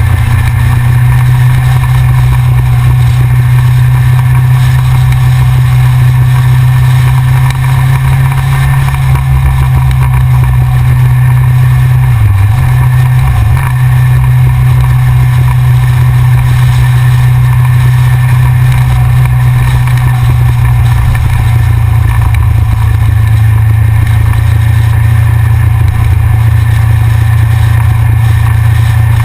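Yamaha XJR's air-cooled inline-four engine, heard from the bike's front-mounted camera, running steadily at cruising speed. Its note dips briefly about twelve seconds in, then settles back to a steady pitch.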